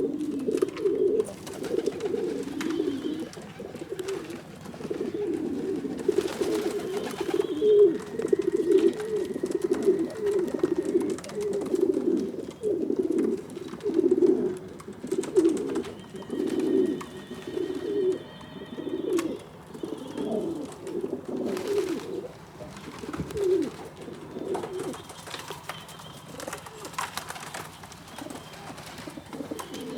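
A loft full of pigeons cooing, many birds at once in an overlapping, continuous warble that thins out somewhat near the end.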